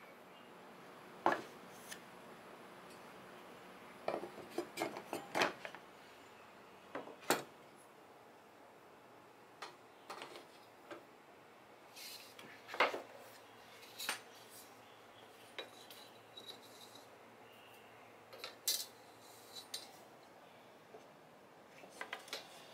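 Scattered, irregular clinks and knocks of metal tools and hard objects being handled and set down, a dozen or so sharp hits spread over the stretch.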